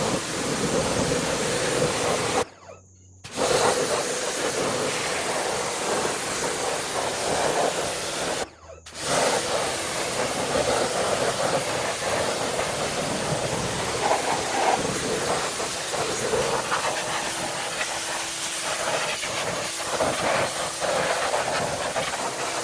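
Pressure washer spraying water onto a wheel and tire, a steady loud hiss that cuts out twice for a moment early on.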